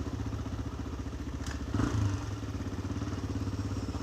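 Honda XR single-cylinder four-stroke motorcycle engine running at low, steady revs, with a brief knock and a short thump about one and a half to two seconds in.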